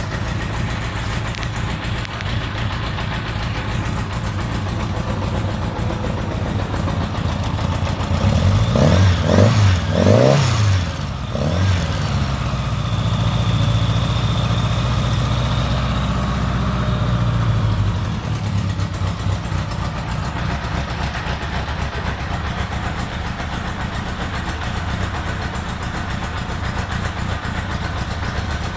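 1975 Honda GL1000 Gold Wing's flat-four engine idling through its new exhaust. It is revved up and down three times about a third of the way in, held at a higher idle for several seconds, then drops back to a steady idle.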